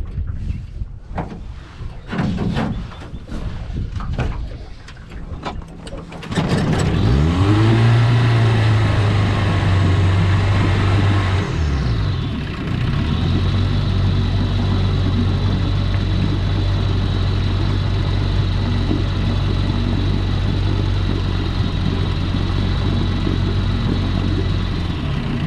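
1960 Gale Buccaneer 15 hp outboard, an OMC-built two-cylinder two-stroke. After a few knocks and clatters it starts about six seconds in and revs up. The pitch dips briefly about twelve seconds in, then the engine runs at a steady speed.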